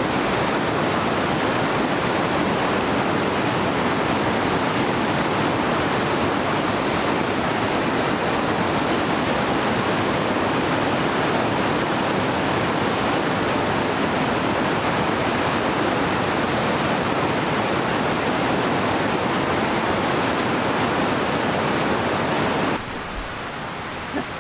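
A river rushing steadily, a loud even roar of moving water that drops to a quieter rush near the end.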